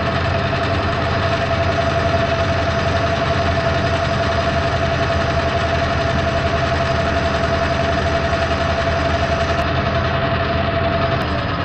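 Metal lathe running through a test cut that calibrates the cross-slide dial: a steady motor and gear drone with a constant whine on one pitch, the whine stopping shortly before the end.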